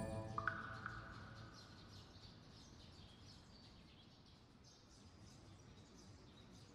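Faint birds chirping over quiet outdoor ambience, as scattered short high chirps. The last note of a music cue dies away in the first second.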